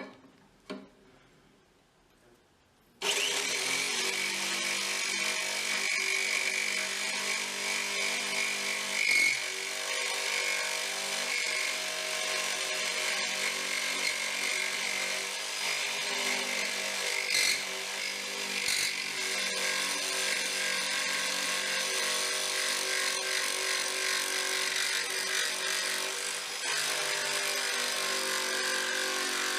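An electric power tool starts about three seconds in and runs steadily under load, cutting or shaping a piece of aluminium bicycle frame for a luggage rack.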